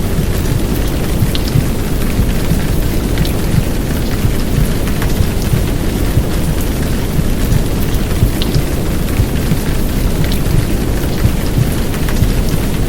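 Heavy downpour rain mixed with a womb-sound recording: a deep, steady rumble under the hiss of the rain, with a few sharp drop ticks scattered on top.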